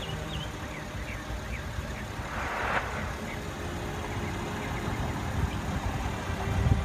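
A vehicle engine running steadily with a low rumble, with faint bird chirps and a short burst of hiss about two and a half seconds in.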